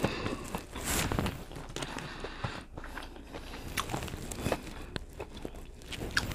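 A person chewing a mouthful of fried chicken tender, with irregular crunches and small mouth clicks.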